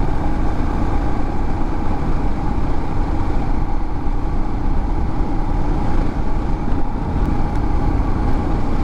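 Royal Enfield Himalayan's single-cylinder engine running steadily at a cruising speed of about 30 mph on a dirt forest road, under heavy wind rush.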